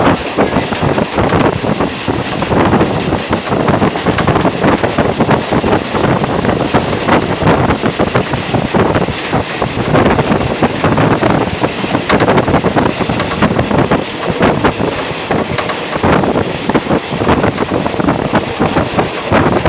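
A train running at speed, its rattle and clatter mixed with loud wind buffeting the microphone.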